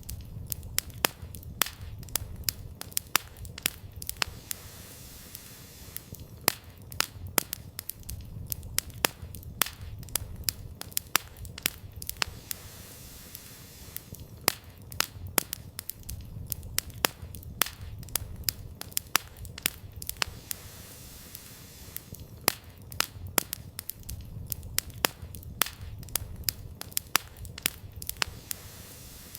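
Wood campfire burning, with frequent irregular sharp crackles and pops from the firewood over a low, steady rumble of the flames.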